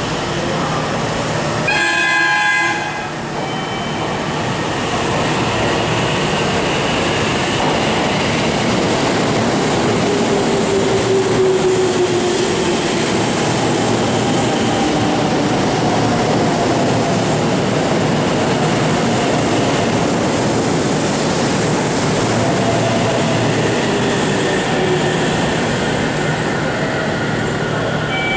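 JR 313-series electric train: a horn sounds briefly about two seconds in, then the train runs through the station with a steady rumble of wheels on the rails and faint tones that slowly slide in pitch.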